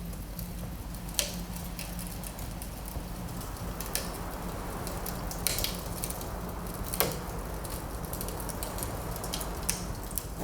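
Wood fire in a fireplace crackling: scattered sharp pops over a steady low rumble, the loudest pops about a second in and about seven seconds in.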